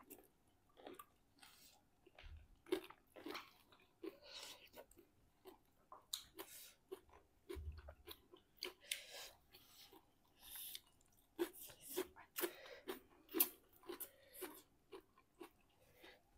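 People chewing food close to the microphone, mukbang-style, with many short, irregular bites and mouth sounds.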